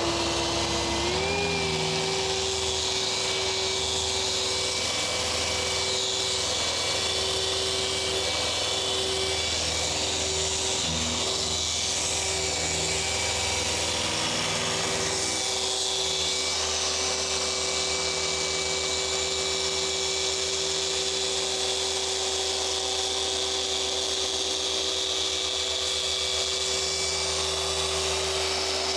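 Rupes dual-action polisher running with a coarse wool pad on car paint during compound cutting: a steady motor whine that steps up in pitch about a second in, then holds.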